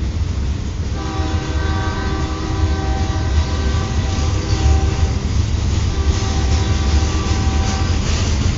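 Freight train passing close, with a steady low rumble from its wagons on the rails. The diesel locomotive's air horn sounds a chord, a long blast starting about a second in and another from about six seconds.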